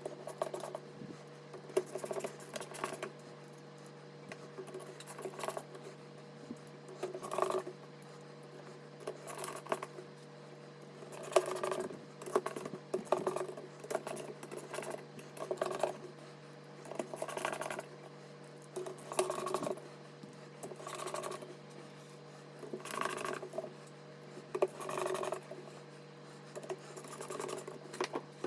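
Small hard parts being handled and worked by hand: short bursts of scratching, scraping and light clicks about every one to two seconds, over a steady low hum.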